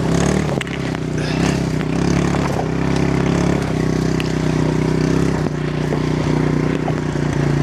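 Quad bike (ATV) engine running steadily, its pitch stepping up and down a few times as it is revved a little.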